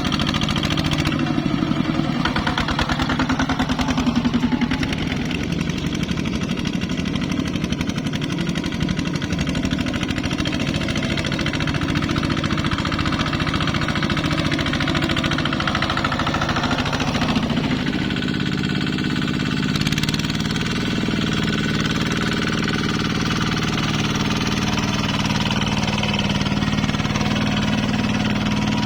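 Engine of a ZT 155 tractor running steadily with a fast, even chug while hauling a load of rice through mud; its pitch shifts slightly a little over halfway through.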